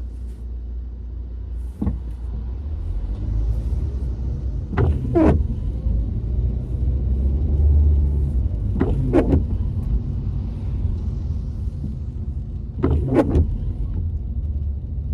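Car cabin road rumble while driving in rain, with windscreen wipers sweeping the wet glass three times about four seconds apart, each sweep a quick back-and-forth pair of squeaky strokes.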